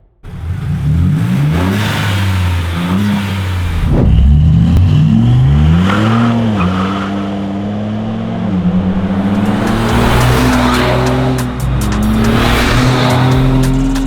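Next Gen Ford Ranger Raptor's twin-turbo V6 through a mid-pipe exhaust, accelerating hard. Its pitch climbs and drops back several times in the first half, like shifts up through the gears, then holds fairly steady and slowly rises.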